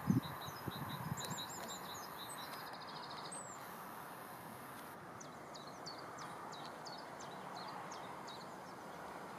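Small songbirds singing, with high short chirps including a run of quickly repeated notes and a busier chirping phrase later on, over a steady background hiss. A few soft low knocks in the first second.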